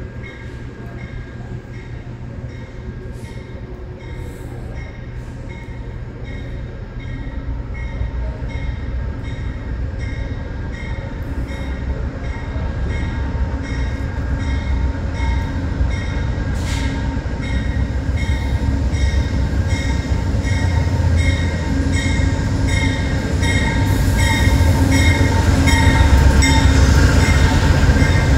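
Amtrak diesel locomotive approaching and rolling into the station, its low engine rumble and wheel noise growing steadily louder until it passes close by near the end. A bell rings in a steady rhythm throughout, getting louder as the train nears.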